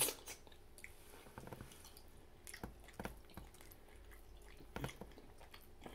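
Wet mouth sounds of eating barbecue ribs by hand: scattered short smacks and clicks of biting and chewing meat off the bone, the sharpest right at the start.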